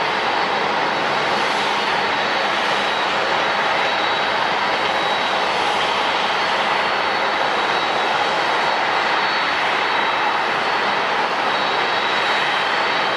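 Jet airliner engines running steadily, a dense roar with a thin high whine held at one pitch.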